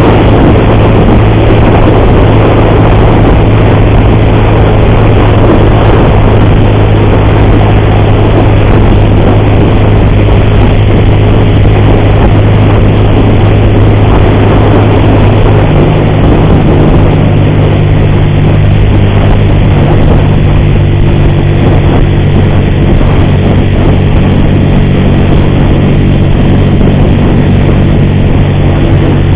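Motorcycle engine running steadily at cruising speed, with heavy wind rush on the microphone; the engine note shifts upward about halfway through.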